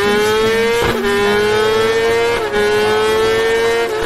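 Inline-four superbike engine with an Akrapovic exhaust at high revs under hard acceleration, its pitch climbing steadily with three quick upshifts, each a short dip, about one, two and a half and four seconds in.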